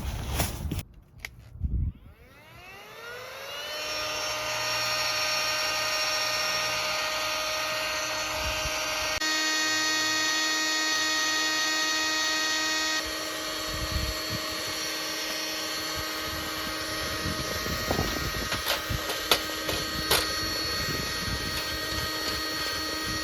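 A small electric motor spins up with a rising whine about two seconds in, then runs at a steady pitch, with a few light clicks later on.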